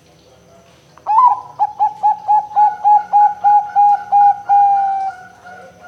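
Zebra dove (perkutut) cooing: a rapid run of a dozen or so short, evenly spaced notes, ending in one longer drawn-out note that fades away.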